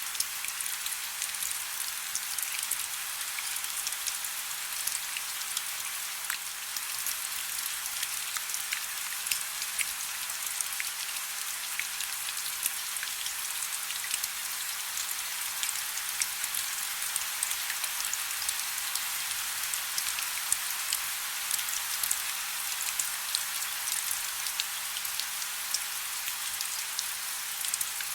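Steady soft rain: a continuous high hiss with many small drop ticks pattering, with no deep low end.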